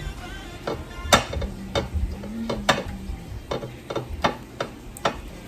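Irregular sharp clicks and knocks, about a dozen, over a low wavering hum.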